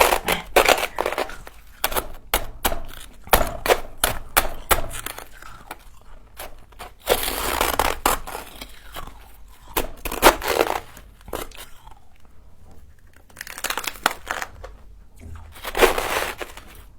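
Hard frost that has frozen into a solid block being stabbed and broken loose: a fast run of sharp crunching stabs, then several longer grinding crunches.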